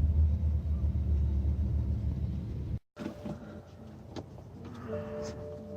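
BMW 335d's twin-turbo 3.0-litre straight-six diesel running with a deep, steady low rumble from the engine and exhaust, slowly easing off and cutting off abruptly about three seconds in. Afterwards only faint clicks and a soft steady tone remain.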